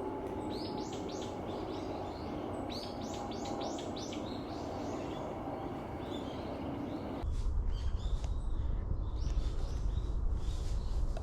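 Small wild birds calling: quick series of short, high calls, several to a burst, over a steady background hum. About seven seconds in, the background switches suddenly to a strong low rumble as the calls go on.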